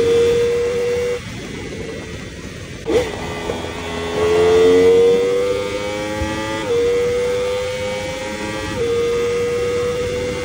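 2023 Yamaha R1's crossplane inline-four with an Akrapovic titanium exhaust at high speed. The engine note falls away about a second in as the throttle closes, and a sharp click comes near three seconds. Then the engine pulls hard again, pitch rising, with quick upshifts about seven and nine seconds in, each followed by another climb. Wind rushes over the microphone throughout.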